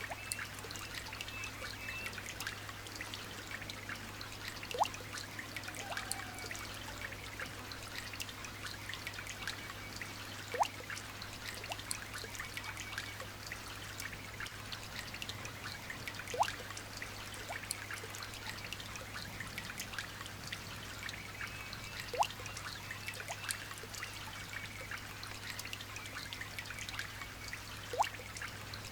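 Light rain pattering and trickling, with a single louder water drop plinking about every six seconds, each plink rising in pitch.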